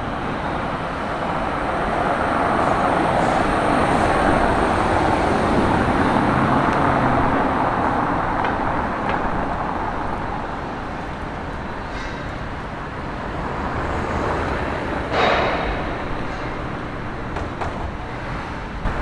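Street traffic: passing vehicles' engine and tyre noise, swelling and fading, with a short sharp knock about fifteen seconds in.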